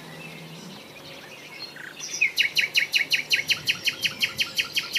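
A small songbird singing a fast, even train of short, high chirps, about five or six a second, starting about two seconds in.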